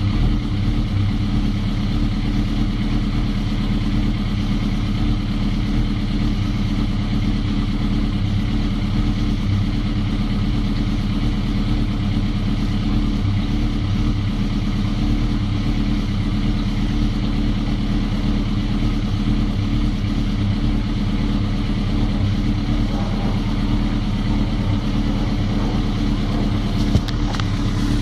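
Suzuki GSX-R motorcycle engine idling steadily just after a rebuild that replaced its failed valve stem seals. A brief click comes near the end.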